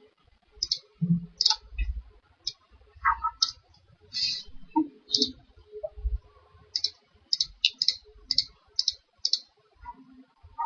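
Irregular clicking from a computer mouse and keyboard being worked, about a dozen sharp clicks spaced unevenly, with a few faint low thumps in between.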